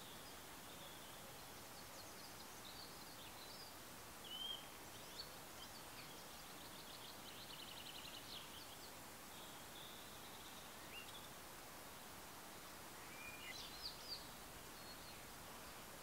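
Quiet woodland ambience with faint bird calls over a steady hiss: scattered short chirps, a quick run of repeated notes about halfway through, and a few sharp calls about four seconds in and again near the end.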